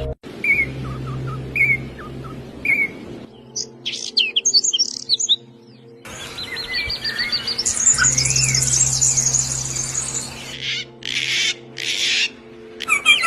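Small songbirds chirping and singing: single chirps about once a second, then quick high twittering, then a long fast trill, then dense bursts of chirps near the end. The background changes abruptly a few times.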